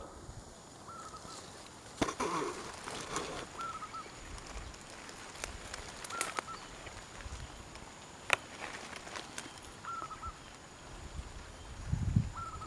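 A bird's short call, repeated about every two to three seconds, over rustling leaves, twig snaps and a few low thumps as someone moves through undergrowth.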